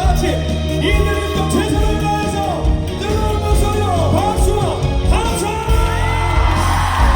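Live trot band music with a steady beat and a bending lead melody line, with whoops from the crowd.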